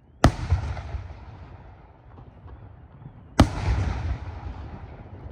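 Two loud firework bangs about three seconds apart, each followed by a rolling echo that dies away.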